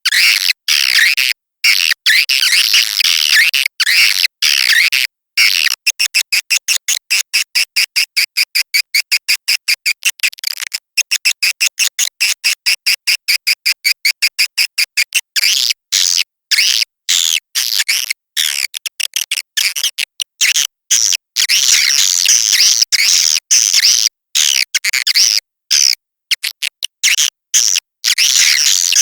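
Swiftlet lure call: high, twittering swiftlet chirps played as a recording to attract swiftlets to nest, broken by abrupt silent gaps where the loop is cut. From about five seconds in to about fifteen seconds the chirps come as a rapid even series, about seven a second, before the twittering resumes.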